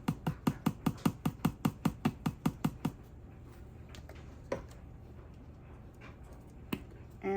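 Dried parsley container being rapidly tapped or shaken to get the herb out, about four sharp taps a second, stopping about three seconds in. Two single knocks follow, one midway and one near the end.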